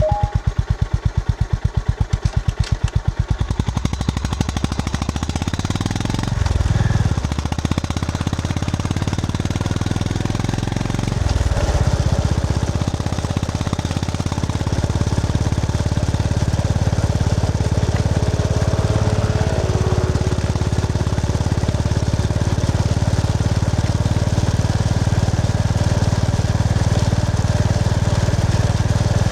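Honda GB350S's air-cooled single-cylinder four-stroke engine thumping at low revs with separate, evenly spaced firing pulses. A few seconds in it pulls away and the beat merges into a steady drone, with two short breaks as it shifts up, then runs steadily under way.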